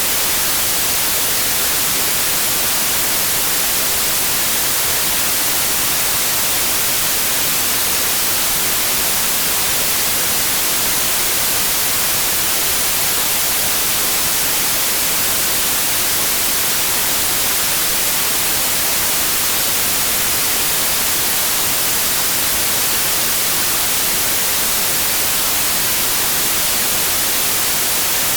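Steady white noise: an even, unchanging hiss with most of its energy in the high range.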